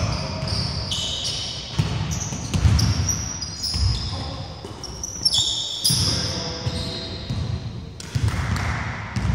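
A basketball bouncing repeatedly on a wooden gym floor during play, with sneakers squeaking on the court in short high squeals.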